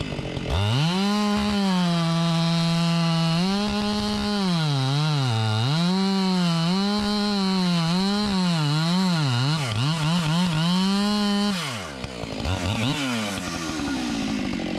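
Husqvarna 592 XP two-stroke chainsaw running at full throttle in a cut through wood, its engine speed sagging under load and recovering again and again. Near the end it drops back to idle, with one short rev.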